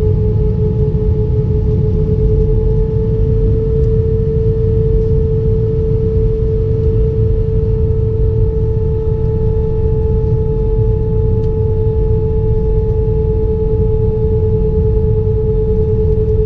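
Airbus A320 cabin noise: a steady engine hum, a constant mid-pitched tone held over a heavy low rumble.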